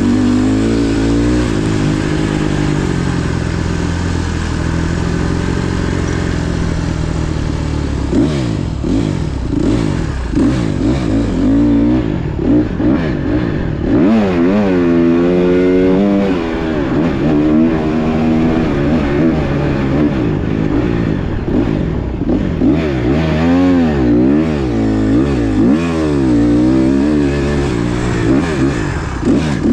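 Small four-stroke single-cylinder motocross bike being ridden hard, its engine revving up and dropping back again and again as the throttle is opened and shut. There are quick rises and falls in pitch in the middle and near the end.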